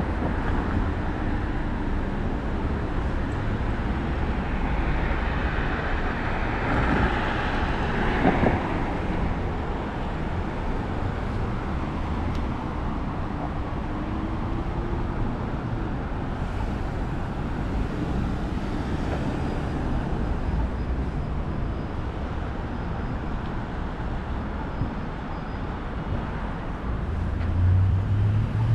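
Road traffic on a city street: a steady rumble of passing cars, with one vehicle passing close about a quarter of the way in and an engine pulling away near the end.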